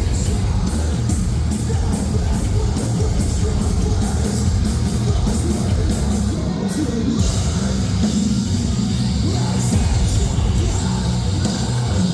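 Live metalcore band playing loud and steady: distorted guitars, bass and pounding drums, with screamed vocals.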